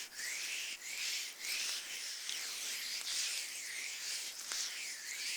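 Ear pick scraping and rubbing inside an ear, close to the microphone, in repeated strokes with a rustling, hissy texture.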